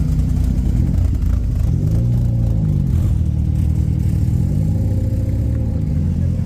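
Car engine running close by, revved twice: the pitch rises and falls about two seconds in and again around five seconds in, and settles back to a steady idle between the revs.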